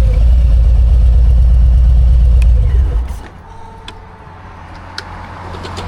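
Harley-Davidson Road Glide's V-twin engine idling with an even low pulsing rumble, then shut off about three seconds in, followed by a few sharp clicks.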